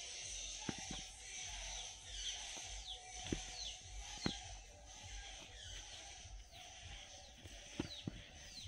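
Birds calling: a run of short, quick downward-sliding chirps repeated every half second or so, with scattered sharp clicks.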